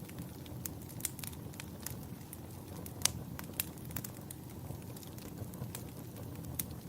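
Campfire burning: a steady low rumble of flames with irregular sharp crackles and pops from the burning wood, one louder pop about three seconds in.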